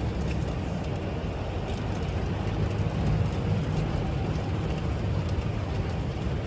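Steady low rumble of a semi-truck's engine and road noise, heard from inside the cab while driving.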